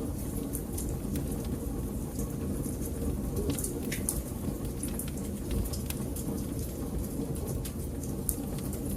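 Wood fire burning in a fireplace: a steady low rumble under frequent, irregular crackles and pops.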